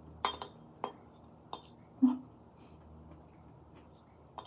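An eating utensil clicking against a food storage container several times, with a short low mouth sound about two seconds in.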